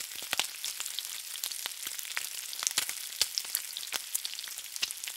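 Food frying in hot oil: a steady high sizzle with many irregular sharp crackles and pops.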